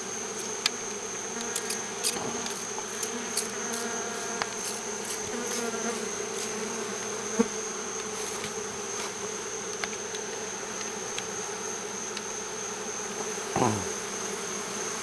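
A disturbed swarm of honeybees buzzing steadily in the air, with scattered light clicks. A steady high-pitched tone runs under it, and near the end there is a brief sweep that falls in pitch.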